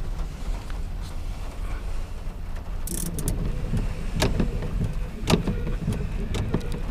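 Long freight train of autorack cars rolling past, with a steady low rumble. A short hiss comes about three seconds in, then sharp wheel clacks over rail joints at roughly one a second.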